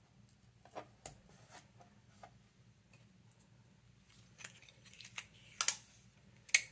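Scattered small clicks and rustles of hands working tape, thread and card stock at a craft table, sparse at first and busier and louder toward the end.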